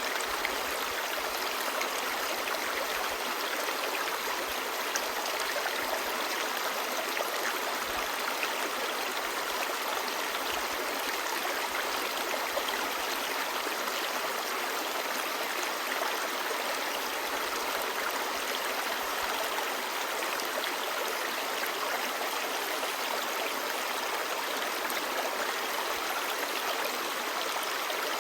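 Clear river babbling, a steady, even rush of flowing water.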